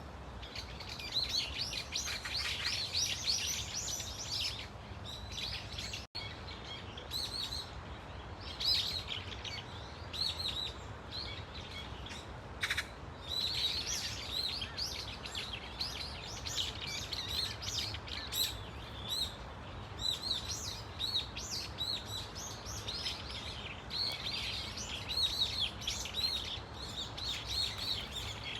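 A flock of brown-eared bulbuls calling: many short, overlapping chirps and squeaky calls, nearly continuous, over a steady low background noise.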